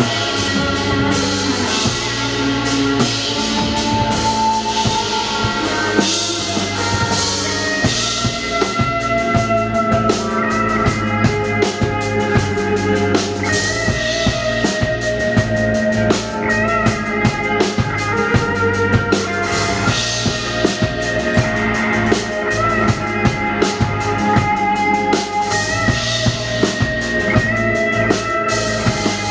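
Rock band playing live: a drum kit keeps a steady beat of kick and snare under bass and held melodic lines from guitar or keys.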